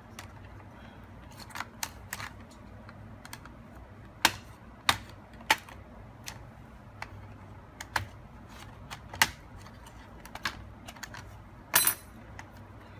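Irregular sharp clicks and taps from a laptop's plastic case and parts being handled and pried apart during disassembly, about a dozen in all, with a short rattling cluster near the end.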